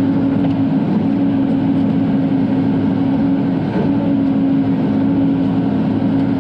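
Diesel engine of a Bobcat E42 mini excavator running steadily at full throttle, heard from inside the cab as a constant drone.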